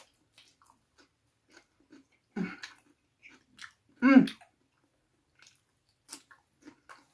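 Close-miked chewing: soft wet mouth clicks and smacks as food is eaten. Two brief louder sounds from the eater's throat about two and a half and four seconds in, the second a short pitched vocal sound.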